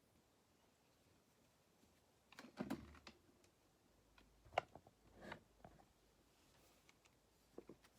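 Near silence in a small room, broken by a few faint clicks and soft knocks of objects handled at a desk: a short cluster a little before the middle, then single taps spaced about half a second to a second apart.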